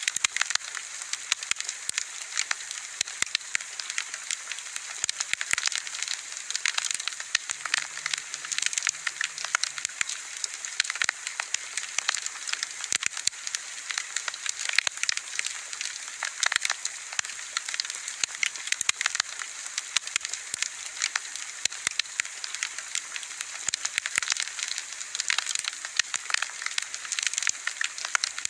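Wood fire crackling steadily, with dense irregular pops and snaps over a constant hiss.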